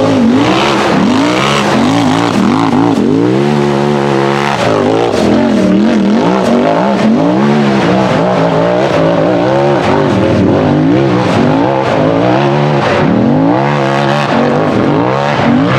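Turbocharged Polaris RZR buggy engine revving hard, its pitch climbing and dropping again and again as the throttle is worked, with the revs held steady for about a second around four seconds in.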